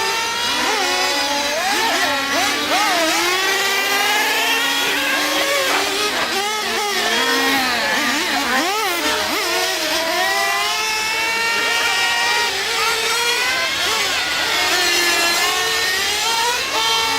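Several nitro RC trucks and truggies running together, their small glow-fuel engines revving up and down over one another as they accelerate and brake around the track.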